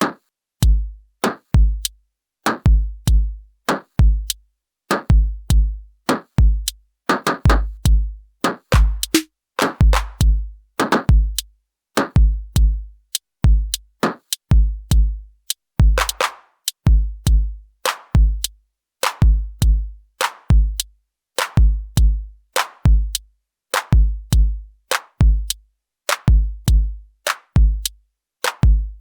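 Elektron Syntakt drum machine playing a looping electronic drum pattern: a deep synthesized kick repeating steadily under short, sharp ticking hi-hats, with a few longer noisy snare-like hits in the middle.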